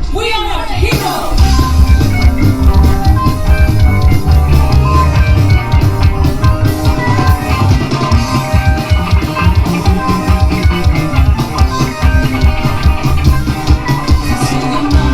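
Live rock band playing: drum kit and electric guitars over bass, loud and steady.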